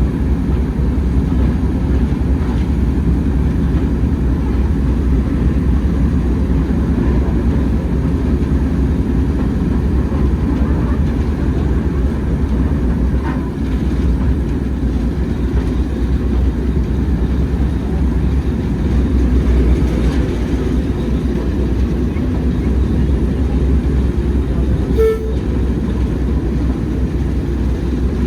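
Train running, with a steady low rumble throughout and a brief pitched toot near the end.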